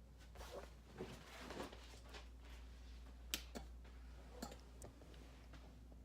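Near silence: a low steady hum with faint rustling of fabric being handled and a few light clicks.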